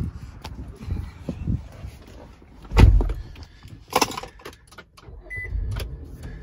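Handling noises in an SUV's driver's seat: a heavy thump about three seconds in and a sharp click about a second later. Near the end a short electronic beep sounds and the 2017 Nissan Pathfinder's 3.5-litre V6 starts up and runs as a steady low rumble.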